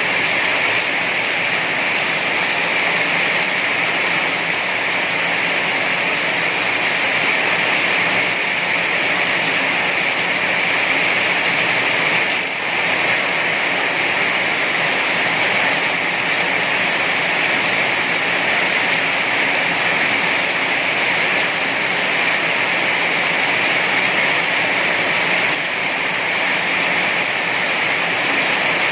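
Heavy rain falling in a dense, steady hiss, with no thunder or other events.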